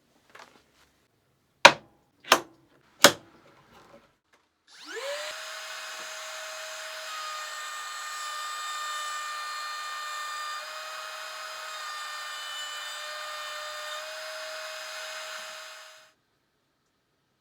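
Three sharp clicks or knocks, then a router motor switches on, whines up to speed and runs at a steady high pitch for about eleven seconds before fading out.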